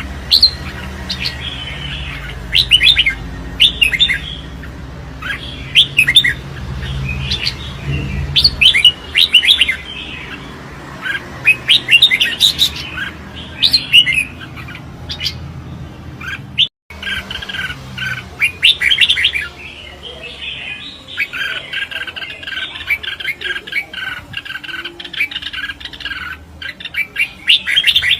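Red-whiskered bulbuls in contest song, a dense run of short, bright chirping phrases repeated over and over, with a low rumble underneath in the first few seconds.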